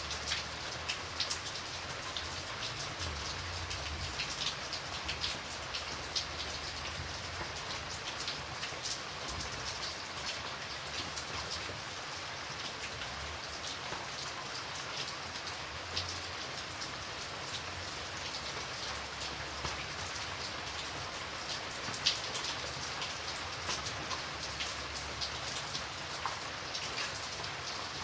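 Steady rain falling on a surface, a continuous hiss dotted with many individual drop splats, one sharper drop about 22 seconds in.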